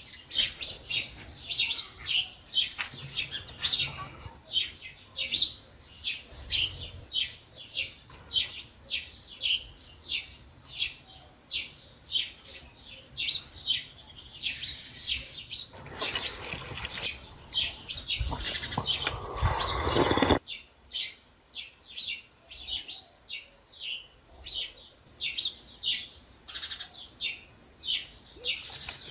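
A bird chirping over and over, short high chirps about twice a second. About two-thirds of the way through, a louder stretch of noise comes in for several seconds and cuts off suddenly.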